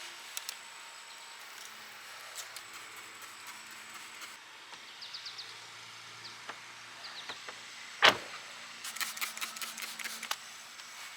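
A single sharp knock about eight seconds in, then a quick run of small clicks and rattles, over a faint outdoor background with scattered short high chirps.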